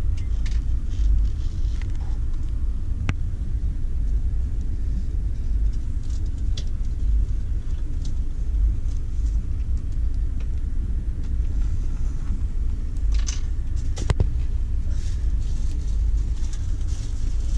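Steady low rumble of a moving passenger train, heard inside the carriage, with a few scattered light clicks and knocks, the sharpest about three seconds in and again near fourteen seconds.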